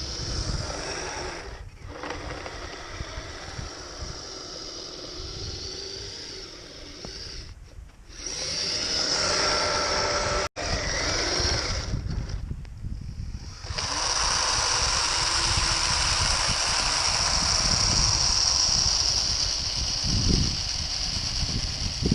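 Kyosho Blizzard RC snowcat driving on metal tracks: its electric motor and gearbox whine steadily, in several short stretches that break off suddenly between them.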